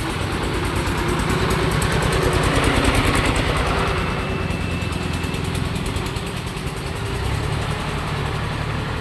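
Heavy diesel engine running with a fast, even low pulse. It grows louder around the second and third seconds, eases back, and settles into a deeper note from about seven seconds in.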